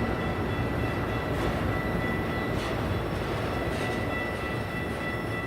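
Freight train working upgrade: a steady low rumble with a thin steady high whine and faint clicks about once a second.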